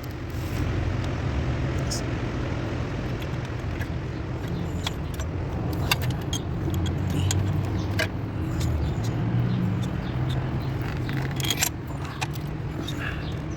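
Isuzu MU-X diesel engine running at a steady idle, a low uneven hum, with scattered light clicks and metallic jingles over it.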